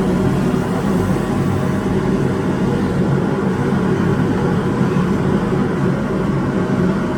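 Street sweeper running with a very loud, steady engine drone, unchanging through the whole stretch.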